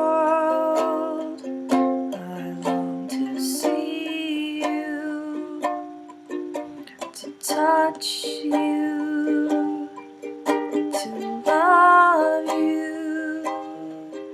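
Ukulele strummed and picked in an instrumental passage of a song, its chords ringing on between strums.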